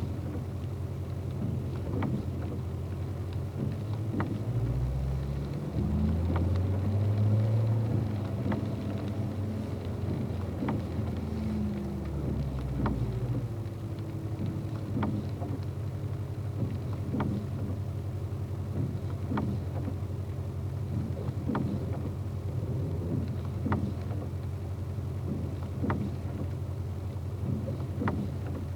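Car engine running, heard from inside the cabin on a rainy day. It swells louder from about four seconds in to about thirteen seconds as the car pulls away, then settles back to a steady hum. In the second half there are regular short ticks about once a second.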